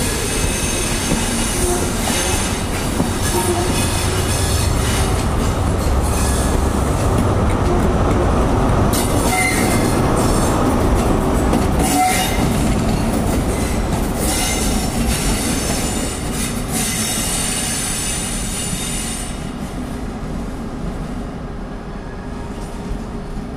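CrossCountry HST pulling out: Mark 3 coaches rolling past with wheels squealing, then the rear Class 43 diesel power car going by about halfway through, at the loudest point. The sound dies away over the last few seconds as the train leaves.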